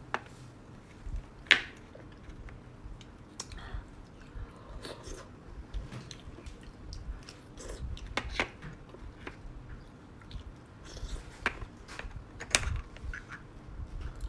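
Close-miked chewing and biting of beef bone marrow and fatty meat: a steady run of wet smacks and sharp clicks, with louder snaps about one and a half seconds in and again near the end.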